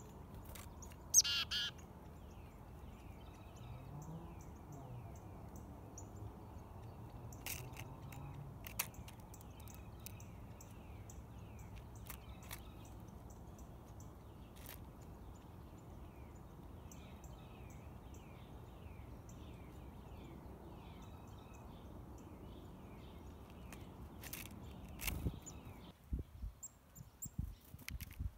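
Small birds chirping over a steady low hum. One louder call comes about a second in, and sharp clicks are scattered through.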